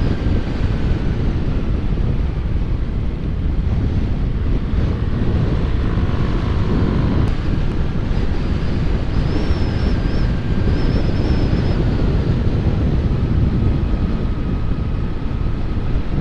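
Strong wind noise on a microphone inside a motorcycle helmet while riding: a loud, steady, low rumble with no letup. The rider blames an air leak on the right-hand side of the helmet, perhaps from old seals.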